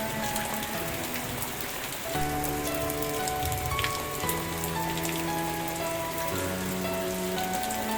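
Steady rain falling, with scattered sharp drip ticks, over slow, soft background music of held chords that change about every two seconds.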